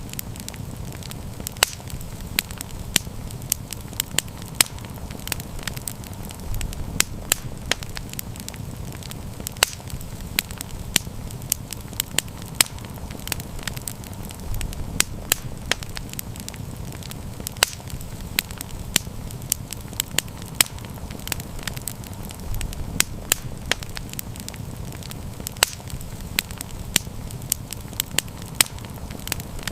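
Wood campfire burning and crackling: frequent irregular sharp pops and snaps over a steady low rumble of the flames.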